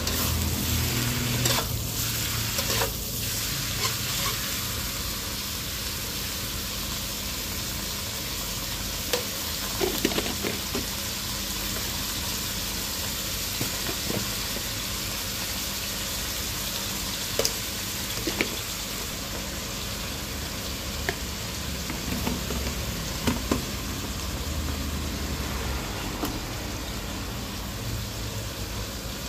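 Squid pieces sizzling steadily as they stir-fry in a wok, with scattered sharp clicks of a metal spatula against the pan.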